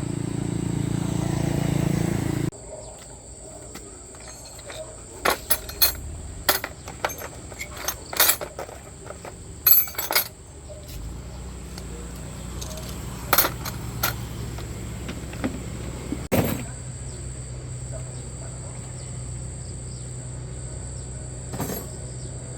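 A motor runs steadily, growing a little louder, and stops abruptly about two and a half seconds in. A string of sharp clicks and clinks follows, and a lower steady hum sets in from about eleven seconds in.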